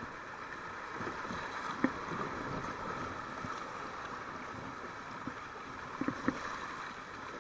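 Steady rush of river water flowing around a kayak, with a few light knocks about two seconds in and twice around six seconds in.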